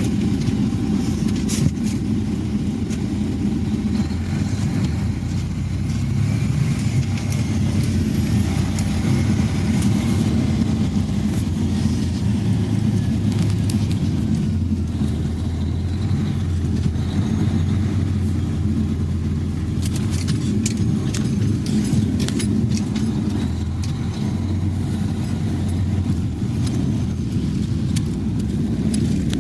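Sander truck's engine running in a steady low drone as the truck drives slowly, with a few light clicks and rattles about two-thirds of the way through.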